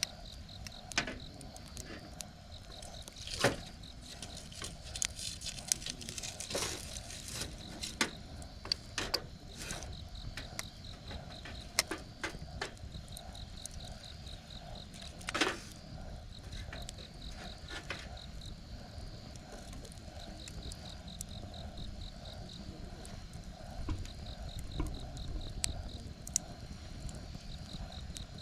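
Wood campfire crackling, with sharp irregular pops, one louder pop about halfway through. Insects chirp behind it in repeated trains of rapid high pulses.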